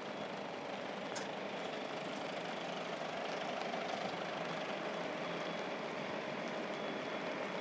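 A truck engine idling steadily, slowly getting a little louder.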